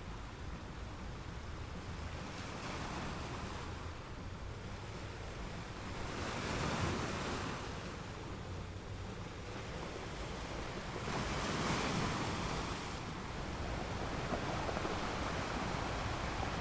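Sea waves washing in as a steady wash of surf over a low rumble, with two louder surges about six and eleven seconds in as waves break.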